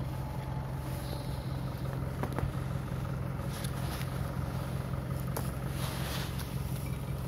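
An SUV engine idling steadily, with a steady low hum and a few faint clicks over it.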